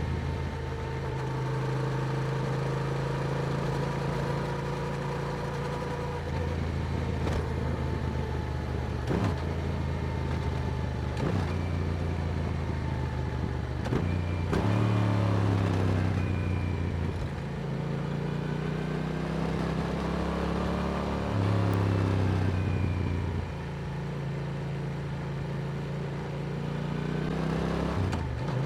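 Yamaha R7 parallel-twin engine through an Akrapovic exhaust, running under way. The engine note holds steady and steps up and down in pitch several times, with a rising rev near the end.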